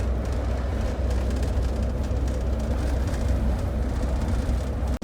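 Motorhome driving on a highway, heard inside the cab: a steady low rumble of engine and road noise.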